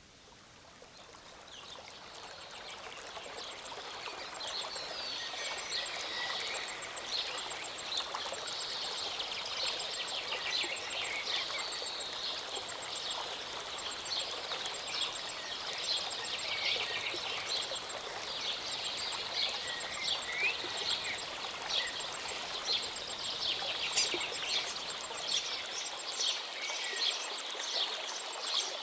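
A small mountain stream or waterfall running steadily, with many songbirds chirping and singing over it. The sound fades in over the first few seconds.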